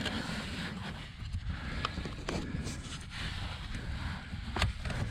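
Scattered sharp clicks and light knocks of hands working at the blower fan under a car's dashboard, the loudest near the end, over a steady low rumble.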